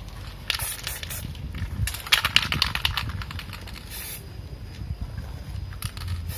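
Aerosol can of flat black base-coat paint: short hissing sprays, with a run of rapid rattling clicks about two seconds in.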